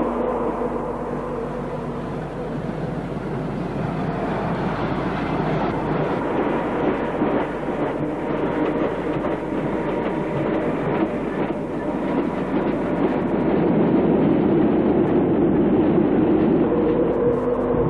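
A train running on rails: a steady rumble with scattered clicks from the wheels, growing louder about three-quarters of the way through.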